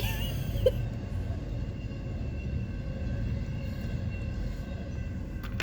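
Steady low vehicle rumble, with a few sharp clicks near the end.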